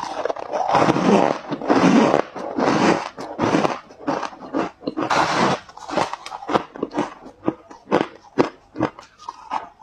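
Ice being bitten and crunched in the mouth, close to the microphone: long, loud crunches through the first half, then shorter, sharper crackling crunches a few times a second.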